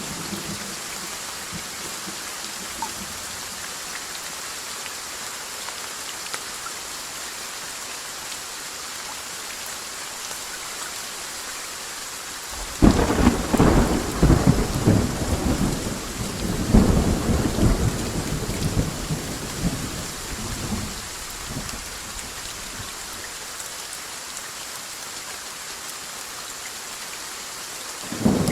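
Steady rain falling throughout. About halfway through, a thunderclap breaks suddenly and rolls on in uneven surges for about eight seconds before fading back into the rain; another peal of thunder starts right at the end.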